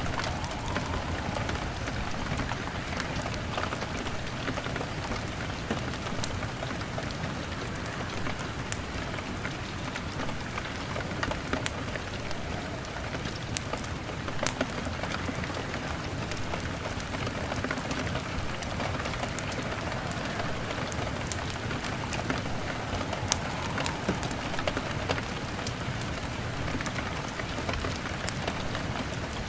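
Steady rain beating on a window, an even hiss, with a log fire crackling: scattered sharp ticks and a few louder pops through it.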